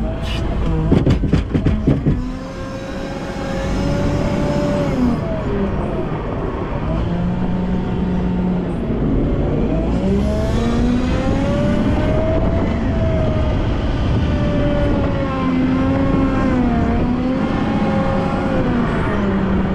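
Volvo L90F wheel loader's diesel engine working, its revs rising and falling over and over as it pushes and lifts snow. A quick run of loud knocks comes about a second in.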